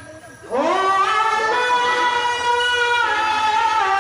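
A qari's voice reciting the Qur'an in melodic tajwid style: after a fading echo, a high, long-held phrase begins about half a second in, sustained with ornamented turns.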